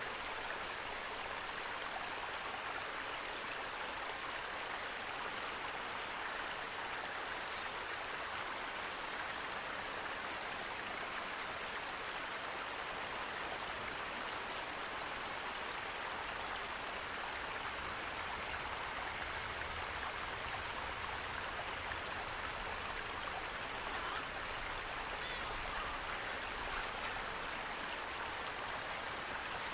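Steady rush of flowing water from a stream or small waterfall, with a few faint, brief high chirps in the background.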